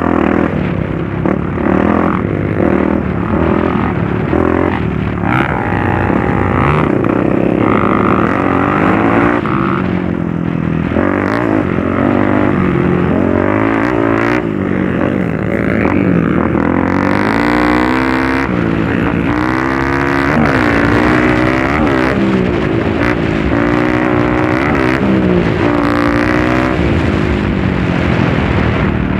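Motorcycle engine being ridden off-road, revving up and down over and over as the throttle opens and closes, its pitch rising and falling every second or two.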